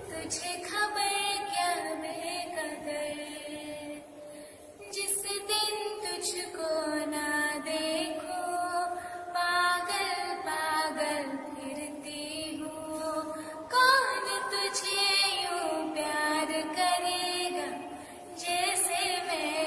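A female voice singing solo in long held notes that waver and glide between pitches.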